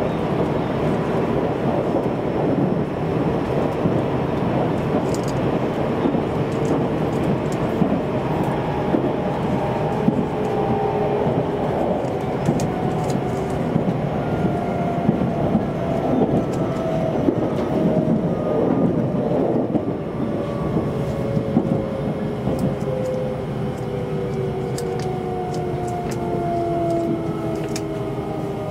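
Inside a JR Central 373 series electric train: steady rumble of the wheels on the rails with a few light clicks, and from about halfway through a motor whine that falls slowly in pitch as the train slows.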